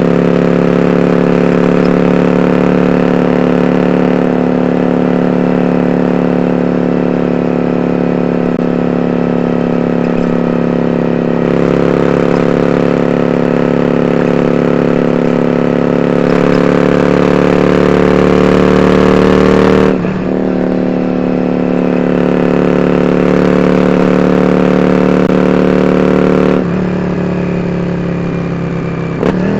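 Yamaha Drag Star 400 Classic's air-cooled V-twin running through dual open-end Supertrap mufflers with eight discs, holding a steady exhaust note that climbs slowly. The note drops briefly about two-thirds of the way through and again near the end, as the throttle is eased.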